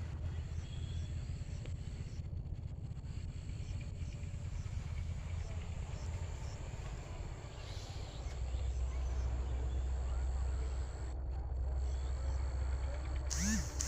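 Insects trilling steadily in a high, pulsing drone over a low rumble that grows louder about eight seconds in. A short pitched call comes near the end.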